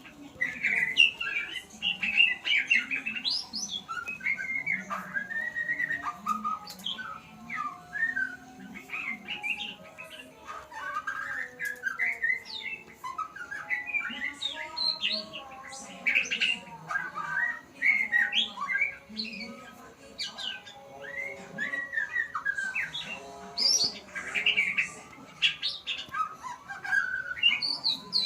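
A murai (white-rumped shama) singing a continuous, varied run of whistles, chirps and harsher squawky notes: a young bird practising its song.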